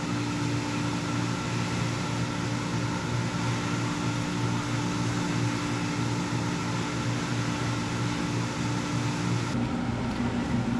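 Steady machine hum with an even, airy rush, like a fan or blower running. About nine and a half seconds in, the hum drops slightly in pitch and the hiss lessens.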